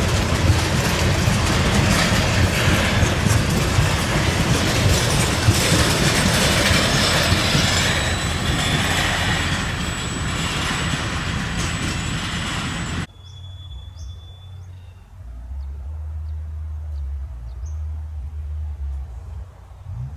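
Freight train wagons rolling past close by, a loud dense rail noise for about thirteen seconds, then cut off suddenly. After that only a low rumble and a few faint high chirps remain.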